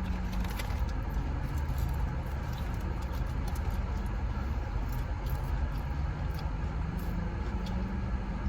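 Steady low rumble of an idling car, with a faint wavering hum and small scattered clicks and rustles of eating.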